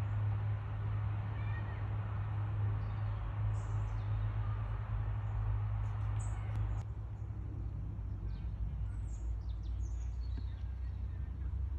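Small birds chirping in short, high calls scattered throughout, over a steady low rumble; a background hiss drops away about seven seconds in.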